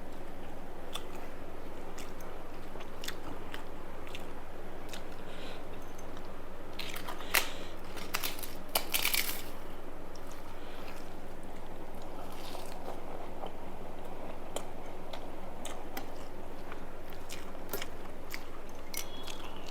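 A person chewing a mouthful of rice and fried food close to the microphone. Scattered soft clicks, and a run of loud crunches about seven to nine seconds in.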